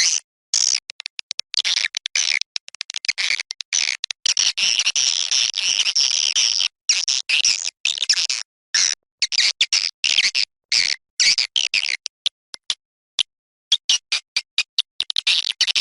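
Swiftlet lure-sound recording: dense, high-pitched chittering twitters of a flock of swiftlets, broken over and over by sudden dead-silent gaps where the recording is cut.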